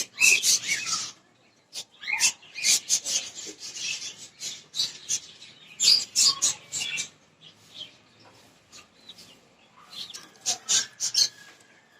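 Small cage birds such as lovebirds chirping in quick bursts of short, sharp, high-pitched calls, with short lulls between the bursts.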